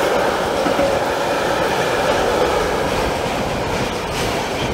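Container freight train's flat wagons rolling past at speed on the near track: a steady rolling rumble from the wheels, with a few sharp wheel knocks near the end.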